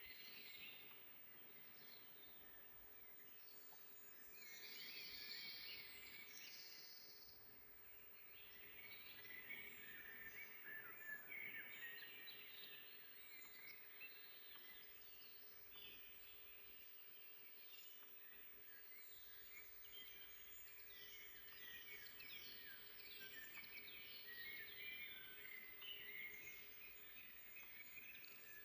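Forest birdsong: several small birds chirping and trilling in overlapping short phrases, faint over a soft background hiss, with a faint steady tone underneath.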